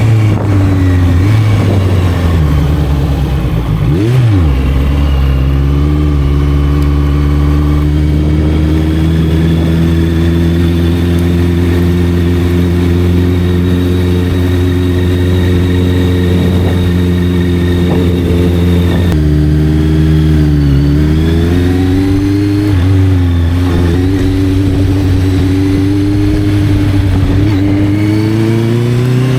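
Honda CB650F's inline-four engine through an Arrow aftermarket exhaust, under way: the engine note climbs slowly and steadily under throttle, drops sharply at gear changes about four seconds in and about two-thirds through, dips a couple more times, then climbs again toward the end.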